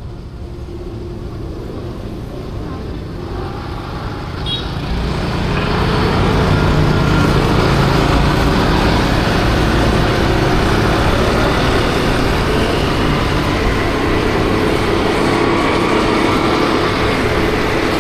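50cc motor scooter riding in city traffic: engine and road noise build over the first six seconds as it picks up speed, then hold steady.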